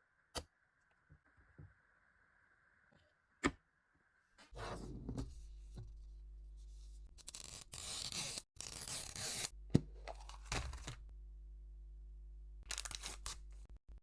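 Unboxing packaging being torn open by hand in several scratchy bursts, after a few sharp clicks. A low steady hum runs underneath from about four seconds in.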